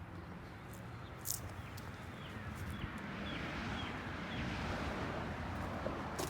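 Outdoor ambience: wind rumbling on the microphone, with a bird chirping about six times in quick succession in the middle and a couple of sharp clicks.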